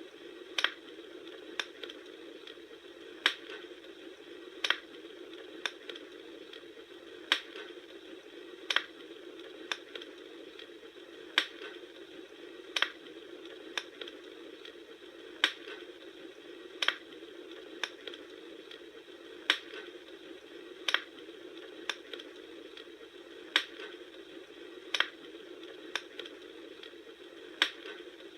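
Wood fire crackling: sharp pops at a fairly even pace, roughly one every second and a half, over a steady low rushing hiss.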